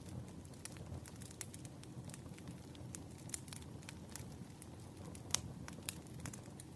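Wood fire crackling: irregular sharp pops and snaps over a low, soft rumble of flames, with a louder pop about five seconds in.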